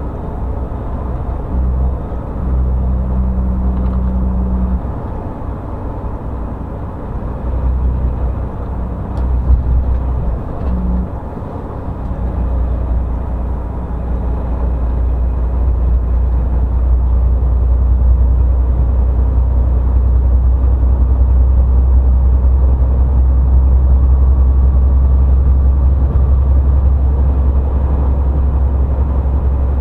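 Car engine and road noise heard from inside the cabin: a steady low rumble that grows louder from about twelve seconds in, then holds.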